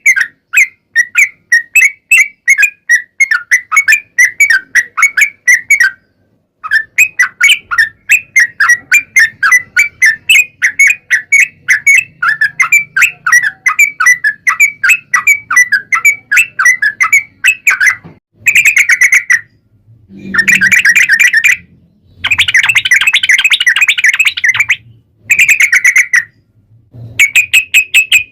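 Trucuk (yellow-vented bulbul) song: long runs of short, fast chirping notes, several a second, broken by a few brief gaps. Later the song comes in shorter, denser bursts of chatter.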